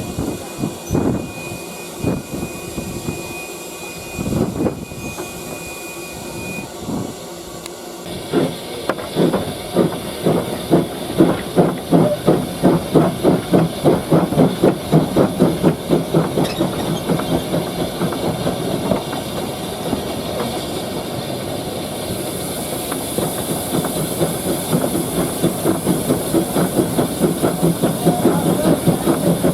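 Steam locomotive starting away: a few scattered knocks, then sharp exhaust beats begin about eight seconds in and quicken as it gathers speed, blurring into steadier chuffing with a hiss of steam near the end.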